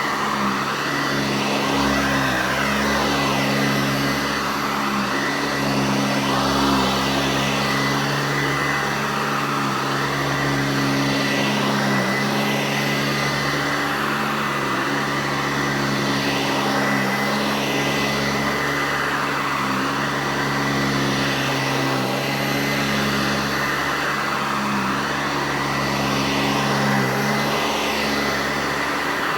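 Eureka Heavy Duty Commercial C2094 upright vacuum running steadily, its motor and brush roll making a loud hum with a high whine above it, the pitch dipping briefly every second or two.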